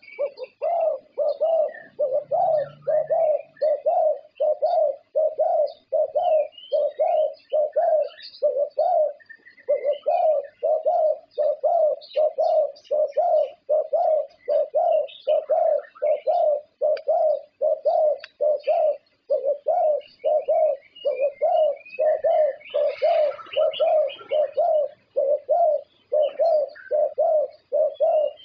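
Zebra dove (perkutut) cooing: a long, even series of short low coos, about two a second, with a brief pause about nine seconds in. Small birds chirp faintly and high in the background.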